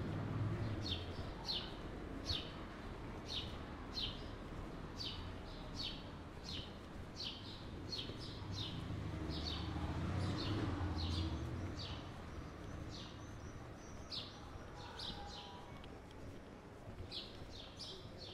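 A small bird chirping over and over, with short chirps that drop in pitch, one or two a second, with a couple of brief pauses. Under it runs a low background rumble that swells about halfway through.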